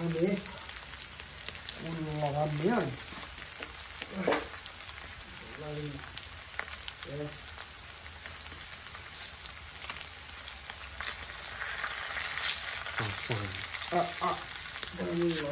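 Meat and fresh greens frying in a large steel wok, with a steady sizzle.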